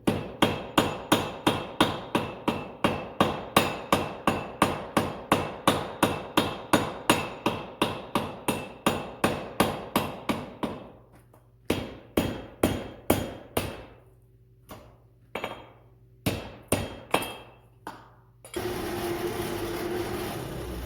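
Hand hammer striking a hot 1/2-inch steel chain link on an anvil, forge welding and shaping it: about three ringing blows a second for some ten seconds, then after a pause a shorter run and a few single blows. Near the end a steady rushing noise starts.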